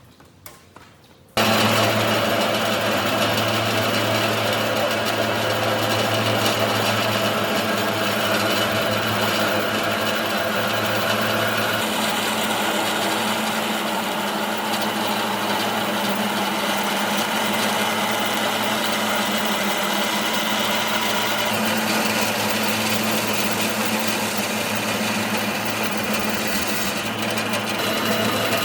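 An electric woodworking machine running steadily with a constant hum, starting abruptly about a second in.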